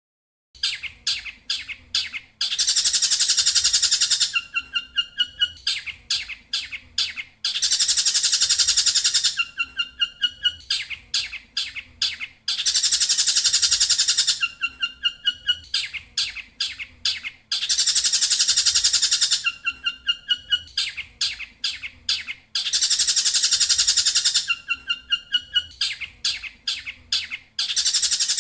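Looped songbird training recording of collared kingfisher and canary song. A run of sharp chirps leads into a dense, high ringing trill of about two seconds, then a few short rising whistled notes. The whole sequence repeats about every five seconds.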